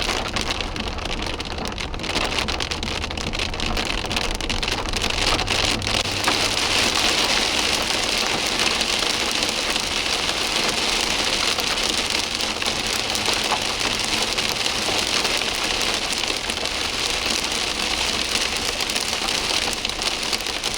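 Heavy rain pouring down in a dense, steady hiss that grows heavier about six seconds in. A low rumble runs underneath during the first few seconds, and there are scattered sharp drop impacts.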